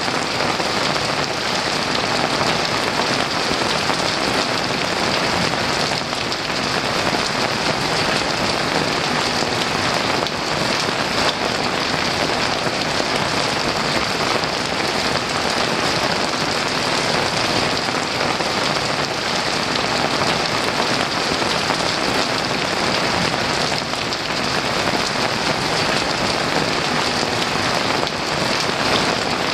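Heavy rain pouring steadily, an even dense hiss with no break or thunderclap.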